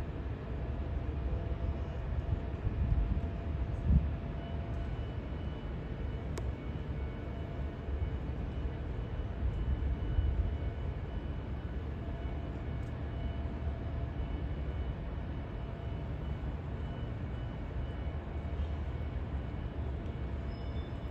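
Outdoor city background noise: a steady low rumble, with a short knock about four seconds in.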